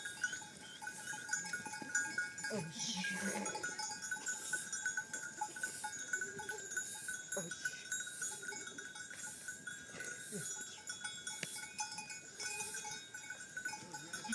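Livestock bells on a flock of sheep and goats jingling steadily, with occasional short bleats.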